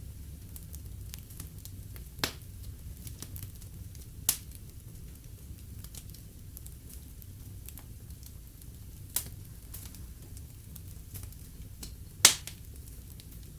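Wood fire crackling in a fireplace over a low steady rumble of flames, with four sharp louder pops, the last one near the end the loudest.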